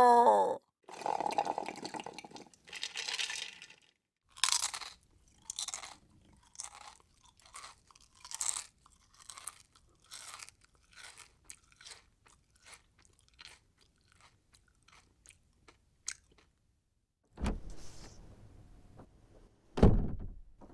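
A person chewing crunchy food: a run of crisp crunching chews about every half-second that grows fainter, then stops. Near the end come two heavier thumps.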